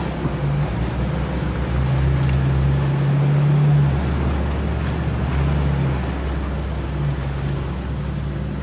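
Jeep Cherokee XJ driving off-road, heard from inside the cabin: the engine note swells and eases with the throttle over steady running noise, with a few light clicks and rattles.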